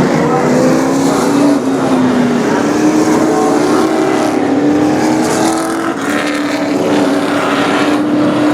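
Several race trucks' engines running together on an oval track, their pitches rising and falling as they pass and change speed.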